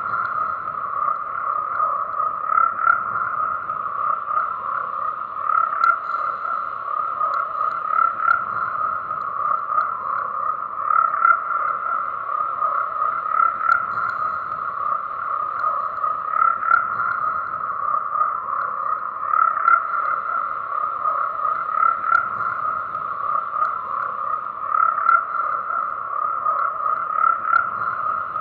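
A chorus of many frogs calling at once: a steady mass of overlapping croaks that swells and eases every couple of seconds.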